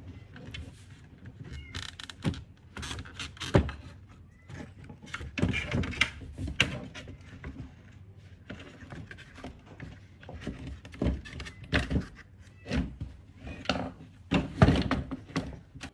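Irregular knocks, clicks and clatter of metal parts and tools being handled by hand, dozens of separate hits at an uneven pace.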